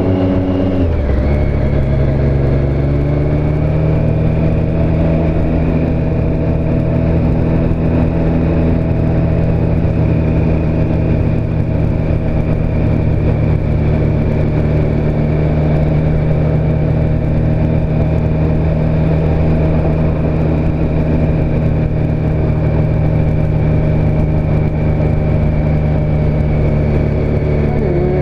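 2017 Triumph Street Triple S's 765 cc three-cylinder engine running under way; its revs drop about a second in, then hold at a steady cruising speed, and begin to climb again at the very end.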